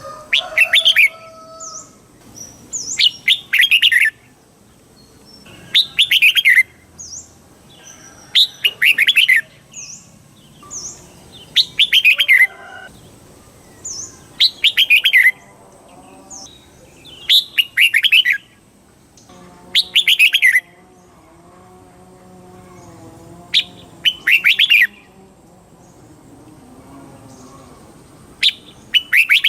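Red-whiskered bulbul singing: short, bright phrases of quick warbled notes, repeated about every three seconds.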